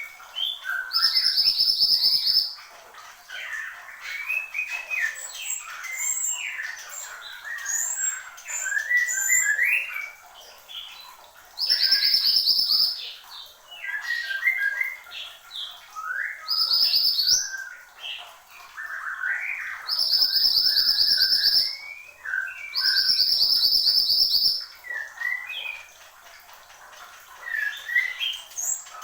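A mantenan gunung songbird singing vigorously: a steady stream of short whistled notes sliding up and down, broken about five times by a dry, buzzing rattle a second or two long.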